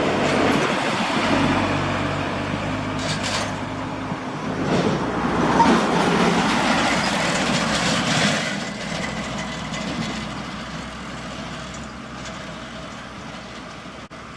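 Large truck driving past, its engine and tyre noise swelling to a peak around the middle and fading away toward the end.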